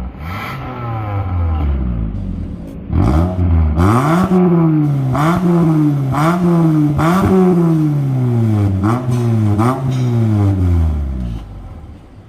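Mitsubishi Xpander's 1.5-litre four-cylinder engine revving through an aftermarket valved (valvetronic) exhaust. It idles at first, then from about three seconds in gets a series of quick throttle blips, the pitch jumping up and sagging back each time, before dropping back to idle near the end.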